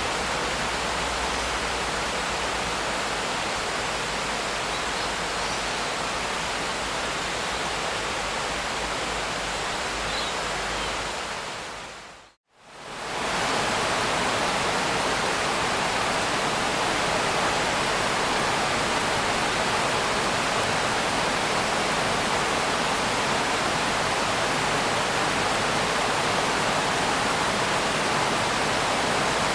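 Steady, even rain with no distinct drops standing out. About twelve seconds in it fades quickly to silence and swells back within a second or two, a splice in a looped track, and resumes with slightly less low rumble.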